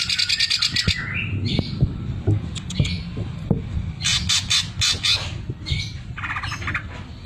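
Green leafbird (cucak ijo) singing in loud bursts of very rapid, rattling trills with short calls between. The fast stuttering trills are the 'sewing machine' (mesin jahit) phrase learned from a tutor recording, prized in kept songbirds.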